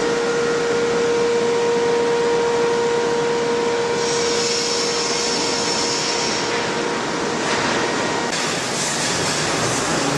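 Sawmill machinery running with a loud, steady noise and a held whine, joined by a higher whine about four seconds in; the sound changes abruptly about eight seconds in.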